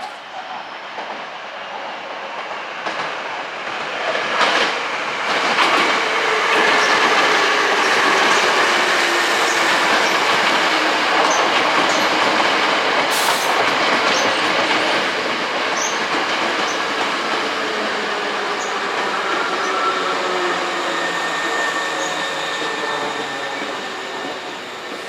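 Hankyu Kyoto Line electric commuter train running past, its noise building over the first few seconds and easing near the end. Wheels clatter over rail joints, with a faint motor whine.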